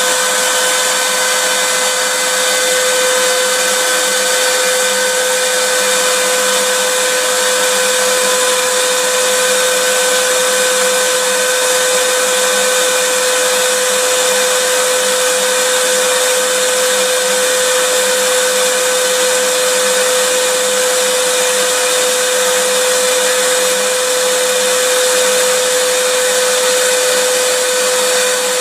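Electric vacuum cleaner running continuously and without change: a rush of air with a steady motor whine through it.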